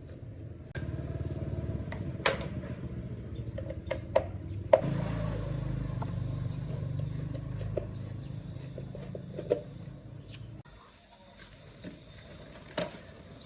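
A motor runs with a low hum for about ten seconds, starting and cutting off abruptly, with several sharp knocks.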